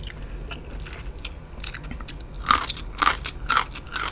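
Close-miked eating: quiet chewing clicks, then four sharp crunching bites about half a second apart, starting about two and a half seconds in.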